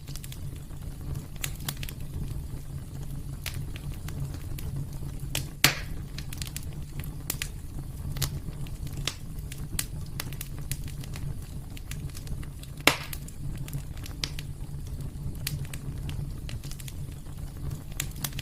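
Wood fire crackling in a fireplace: a steady low rumble of burning under irregular sharp crackles, with two louder pops, one about a third of the way in and one about two thirds in.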